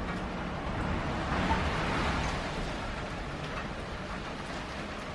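Steady rain falling, with wind, swelling briefly about one and a half seconds in.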